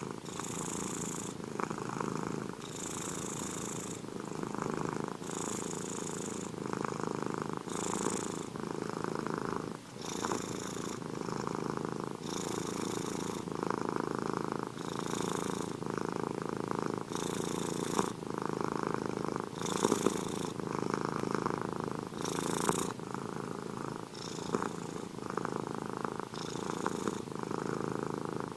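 Domestic cat purring close up, continuous, the purr swelling and changing with each breath in and out in a steady cycle of about two seconds.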